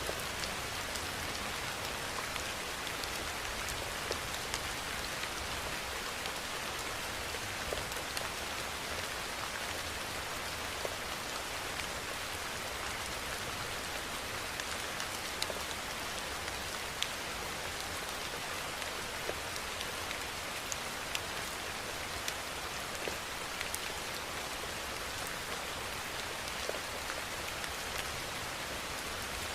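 Steady rainfall: an even hiss of rain on surfaces with scattered individual drops ticking throughout.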